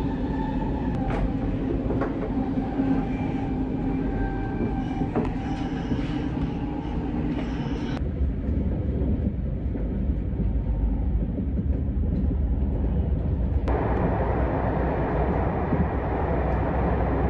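Steady rumble of an SRT high-speed train running, heard inside the carriage, with a faint steady whine and a few light clicks in the first half. The sound turns duller abruptly about halfway through and brightens again near the end.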